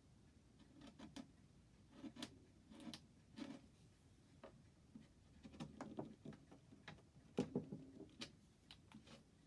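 Faint ticking of a longcase (grandfather) clock movement, clicks coming roughly once a second, unevenly spaced and some doubled.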